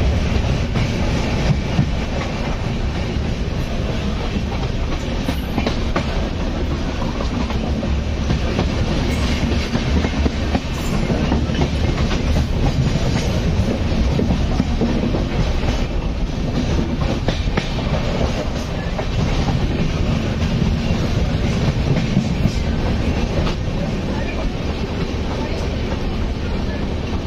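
Passenger train rolling steadily along the track: a continuous low rumble with wheels clicking over the rail joints.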